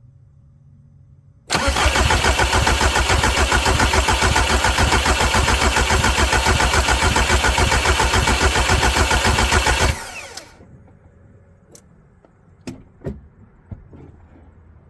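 Volkswagen Jetta TDI diesel engine turned over by its starter for about eight seconds in an even, rapid rhythm without catching, then stopping abruptly. It is a hard start after a fuel filter change, with air still in the fuel system. A few light clicks follow.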